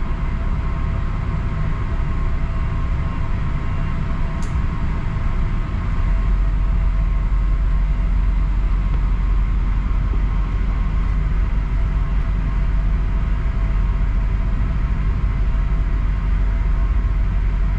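Ship's engines droning steadily, a low rumble with a steady hum above it. The rumble grows stronger about six seconds in, as if the engines take more power, and there is a single faint tick about four seconds in.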